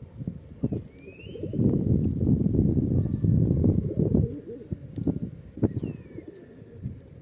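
A flock of pigeons cooing and flapping their wings, busiest in the middle stretch, with a few short, high, falling chirps from smaller birds over them.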